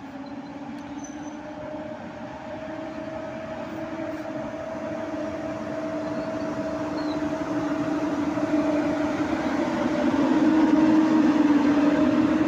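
A train drawing closer: a steady two-note hum over rolling noise, growing steadily louder.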